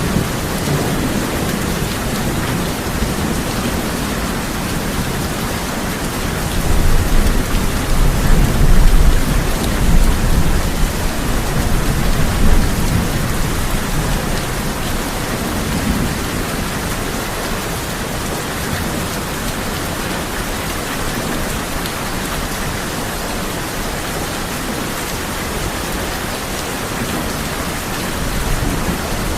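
Heavy rain drumming steadily on a tin roof. A roll of thunder rumbles low from about six seconds in, swells and fades out over the next several seconds.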